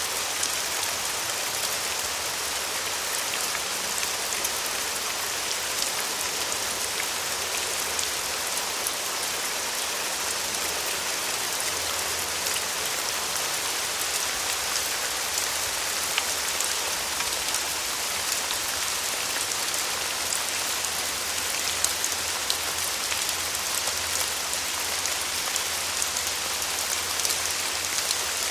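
Steady rain falling and pattering on a surface, an even hiss full of small drop ticks.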